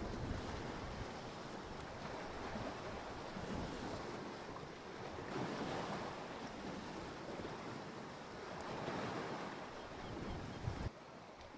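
Ocean waves washing ashore, with wind buffeting the microphone; the surf swells twice, about halfway through and again later. The sound drops away suddenly near the end.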